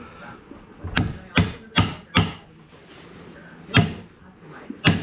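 Sharp knocks from striking work in a woodworking shop: four quick blows about a second in, then two more spaced out near the end.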